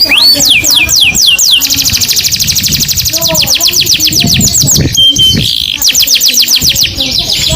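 Domestic canary singing. It opens with a few slower falling sweeps, then runs into long, very rapid trills of repeated high notes, broken by a short break about five seconds in.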